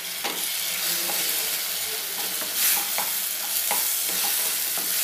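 Chopped onions and tomatoes sizzling steadily in a stainless steel kadai while a wooden spatula stirs them, with irregular scrapes and knocks against the pan.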